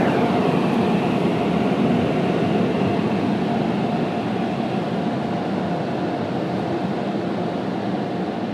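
Car wash air-dryer blowers running with a steady loud rush, heard from inside the car, with a falling whine right at the start. The rush slowly grows quieter.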